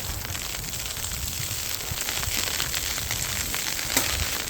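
Wind rumbling and buffeting on the microphone in a snowstorm, over a steady crackling hiss, with one sharp click about four seconds in.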